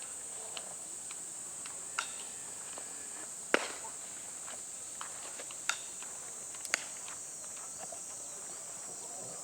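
Steady high-pitched insect chirring, broken by a few short sharp knocks; the loudest comes about three and a half seconds in.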